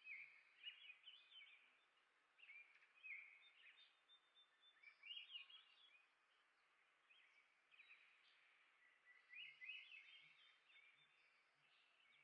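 Faint songbird chirping and twittering in short bursts every second or two, with quick high notes and brief trills.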